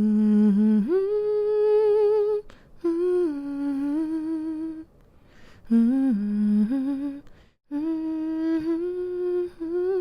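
A woman humming a slow, soothing lullaby-like tune for a baby, in long held notes with a gentle vibrato, broken into three or four phrases with short pauses for breath.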